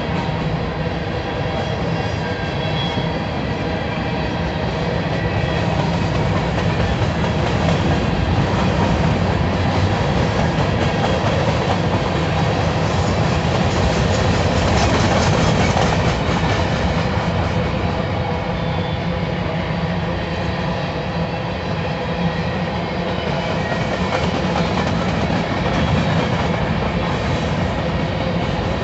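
Covered hopper cars of a freight train rolling past: a steady rumble of steel wheels on the rails, with thin, high ringing tones from the wheels over it, a little louder about halfway through.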